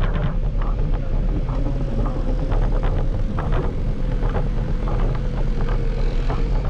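Scooter riding along the street: a steady motor whine over a low rumble, with frequent rattles and clicks from bumps in the ground.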